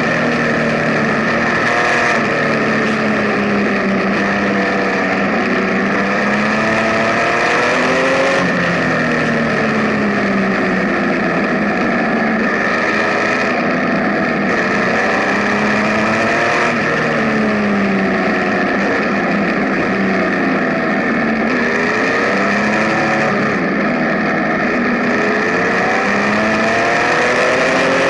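Benelli Tornado TnT 1130 Café Racer's three-cylinder engine under way, its pitch climbing and dropping back several times as it accelerates and shifts gear, over a steady rush of wind noise.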